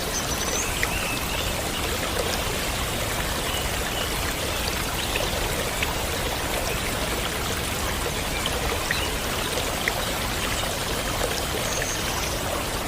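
Steady rushing and trickling of flowing stream water, with a few faint short high chirps over it.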